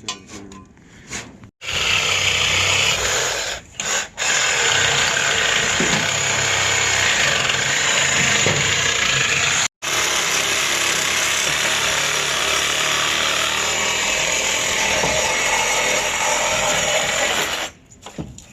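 A power tool running in long continuous stretches. It starts about a second and a half in, stops briefly twice a few seconds later, cuts out for an instant midway, and stops shortly before the end.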